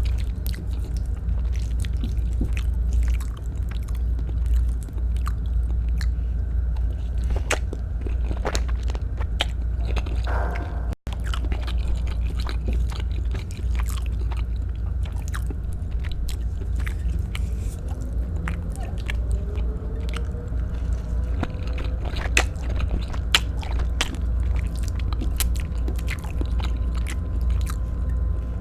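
Close-up chewing and wet mouth clicks of someone eating Filipino-style spaghetti, over a steady low hum. The sound drops out briefly about eleven seconds in.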